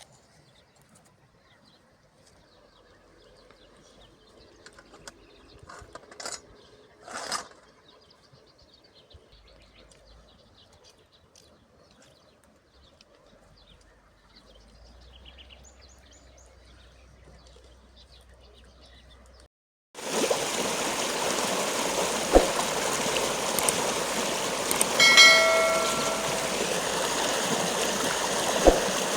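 Quiet rural ambience with faint bird chirps and two short knocks, about six and seven seconds in. Then, after a sudden cut about twenty seconds in, a steady rushing stream, with a brief call heard over it a few seconds later.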